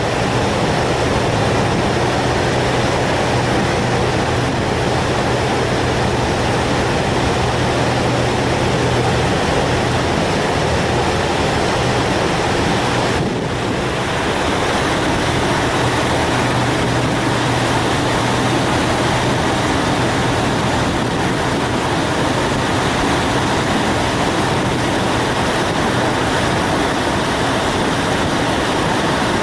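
Ferry engines running steadily as the vessel comes alongside its berth, a constant low hum under a loud rushing noise, with a brief dip about halfway through.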